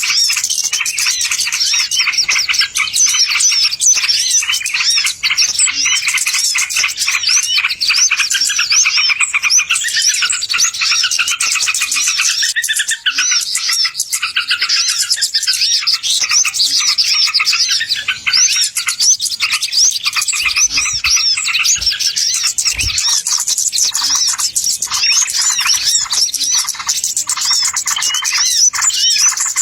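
Dense chorus of many small birds chirping at once, fast overlapping high-pitched chirps and twitters without a break: a bird-luring (pikat) call recording.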